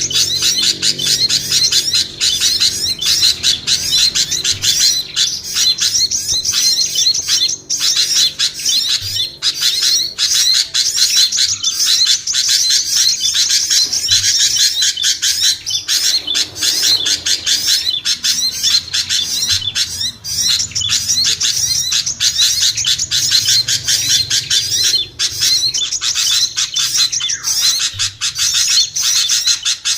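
Dense, continuous chattering of many small songbirds, rapid high chirps and twitters overlapping with no pause: a bird-lure call track meant to draw small birds down.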